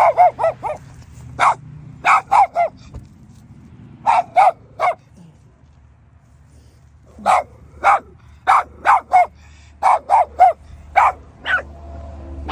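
A dog barking in quick volleys of two to five short, high-pitched barks, with a quiet gap of about two seconds midway.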